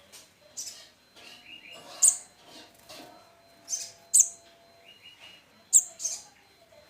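Young little spiderhunter (sogok ontong) fledglings calling: short, sharp, very high chirps about once a second, with softer, lower runs of notes in between.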